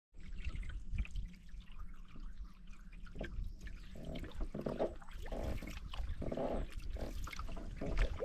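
Lake water trickling and dripping around a canoe, with the splash of paddle strokes dipping into the water.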